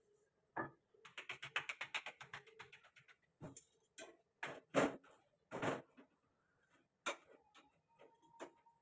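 Kitchen clicks and knocks from roti making: a fast run of light clicks lasting about two seconds, then several separate knocks of utensils.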